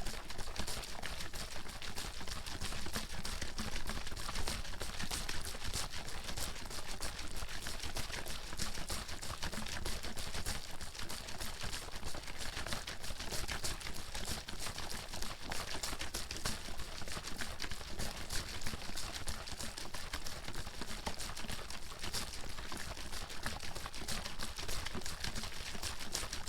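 Bottle of water being shaken hard without pause: the water sloshes and splashes inside, with a dense, fast patter of knocks at an even level throughout.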